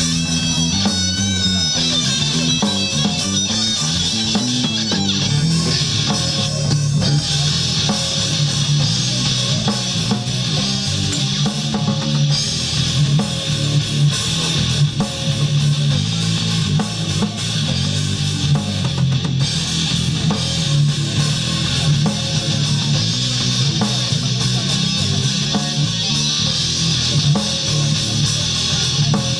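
Rock band playing a song with guitars and a drum kit.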